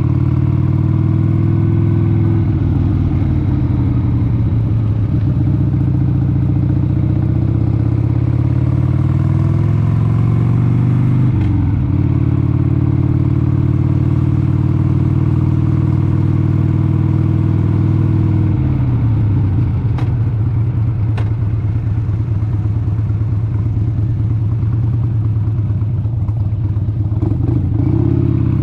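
1996 Harley-Davidson Sportster 883's air-cooled V-twin engine pulling the bike along the road. The pitch eases down, then climbs steadily and breaks briefly about a third of the way in, as at a gear change. It holds steady, then drops about two-thirds of the way through and runs lower until it picks up again near the end.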